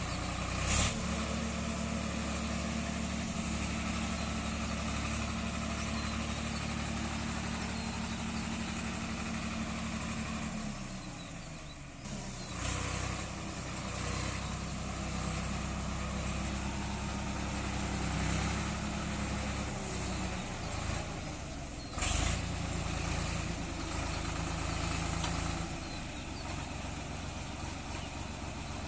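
Swaraj 744 FE tractor's three-cylinder diesel engine running steadily. About ten seconds in the engine speed drops, then picks up again a couple of seconds later. Sharp knocks come about a second in and again about two-thirds of the way through.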